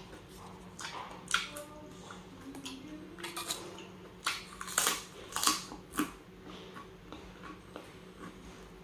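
Eating sounds: a spoon or fork clinking and scraping on a plate with wet mouth clicks of chewing, a scatter of short sharp sounds, loudest between about four and six seconds in. A faint steady hum lies underneath.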